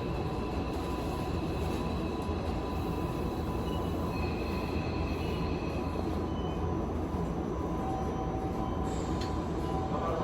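Tokyu 5050 series commuter train standing at a station platform: a steady low hum from its onboard equipment, with a few faint, steady high whine tones.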